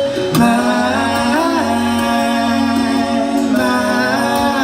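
Live soft rock ballad: a male lead singer holds long wordless sung notes that bend in pitch, over a quiet band accompaniment.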